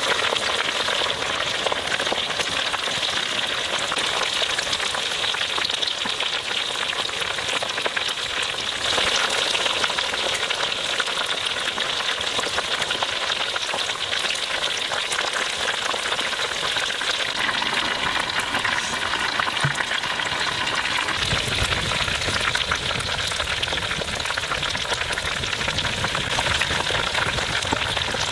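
Chicken frying in hot oil: a steady, dense crackling sizzle. A low rumble joins it about three quarters of the way through.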